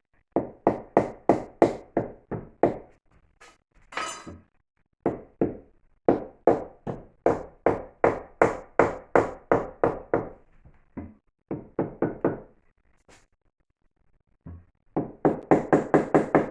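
A brick being tapped down into fresh mortar with a hand tool, in runs of quick, even knocks about three a second, broken by short pauses.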